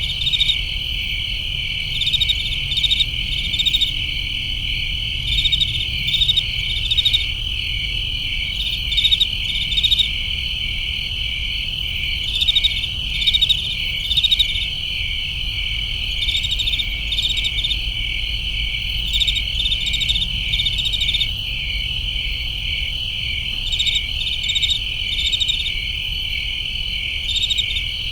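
Crickets chirping in a dense, steady trill, with louder pulsed chirps coming in short clusters every second or two, over a faint low rumble.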